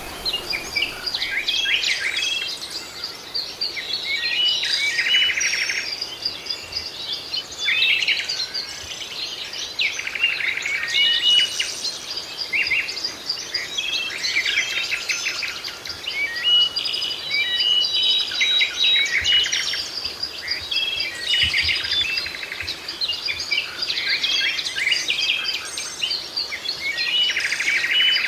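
Several songbirds singing and chirping together, a busy mix of short trills, twitters and whistled notes that keep overlapping with almost no gaps.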